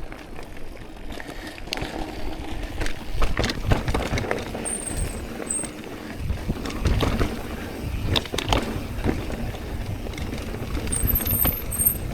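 Mountain bike rolling over a rocky dirt trail, heard from the rider's own bike: tyre noise and a low rumble, with irregular knocks and rattles as it goes over rocks. The brakes squeal briefly and high, about halfway through and again near the end.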